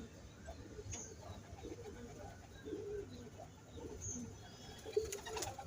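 Domestic pigeons cooing, low soft repeated calls, with a few sharp taps near the end.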